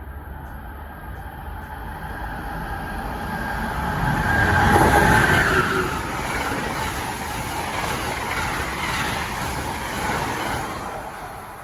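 Train passing by, growing louder to its loudest about five seconds in, then a steady rumble and rush of the cars rolling past before it fades near the end.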